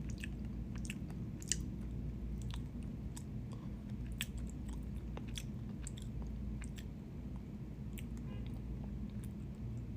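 Close-up chewing and biting of a fast-food hamburger: irregular wet crunching clicks, with a steady low hum underneath.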